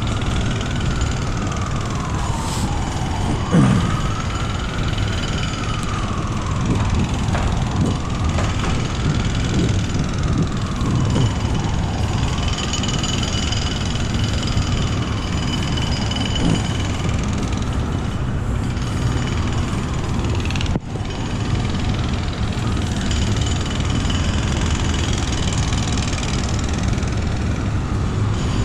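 Steady rumble of heavy city vehicle traffic, with a fainter wailing tone that rises and falls about every three seconds through much of it.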